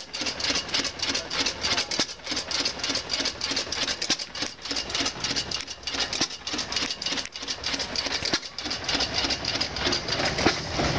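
A motorcycle engine running steadily with a rapid, even beat, sounding like a Yamaha 650.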